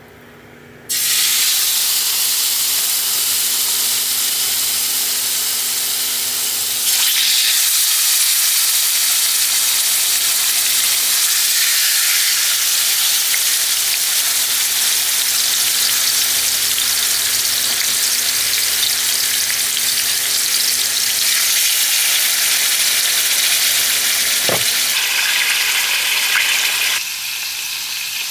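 Food frying in a hot skillet with a loud, steady sizzle. The sizzle starts suddenly about a second in, gets louder at around seven seconds and drops off near the end.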